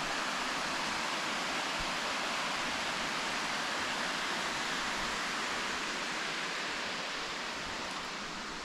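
Steady, even rushing noise that eases slightly near the end.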